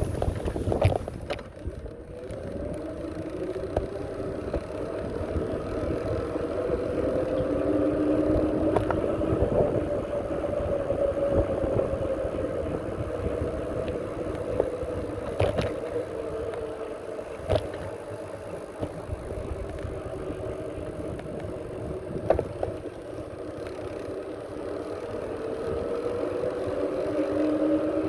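Bicycle riding along a path: wind rumbling on the microphone and a wavering whine that rises and falls in pitch with the riding speed, with a few sharp clicks and rattles from bumps.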